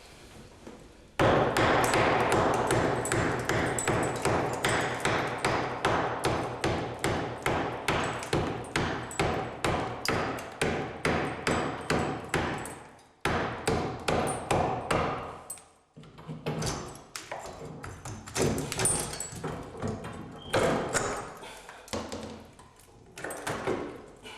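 Hammer blows chipping away cement debris, a rapid run of sharp ringing strikes several a second, then after two short breaks a slower, irregular series of strikes.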